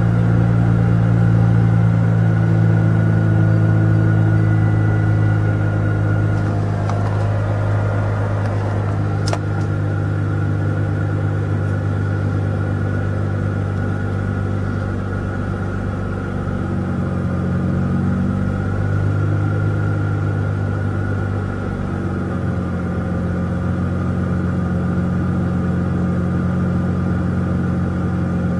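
Mazda RX-8's two-rotor Renesis rotary engine idling steadily at a fast cold-start idle while it warms up, its idle note wavering slightly a couple of times.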